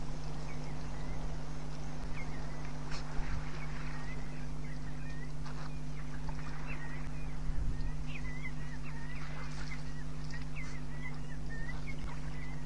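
Waterhole ambience: a small bird chirping over and over in short high calls, over a steady low hum. African elephants drinking make a few soft low splashes, most clearly about three and seven seconds in.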